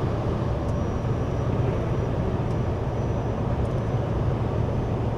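Truck cab interior while driving at about 80 km/h: steady engine and road rumble with wind noise, even and unchanging, with a faint high whine and a few light clicks.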